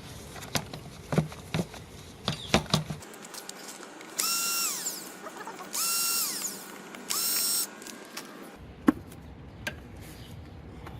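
Power drill running in three short bursts, each spinning up, holding a steady whine and winding down, driving screws. Before it, a few scattered clicks and knocks of handled tools and parts.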